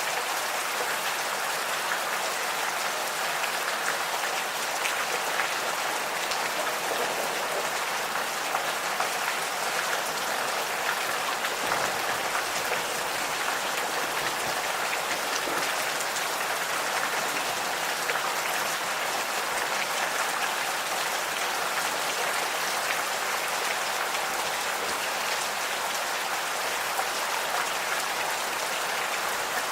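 Steady gentle rain falling, with many small drop impacts ticking through an even hiss.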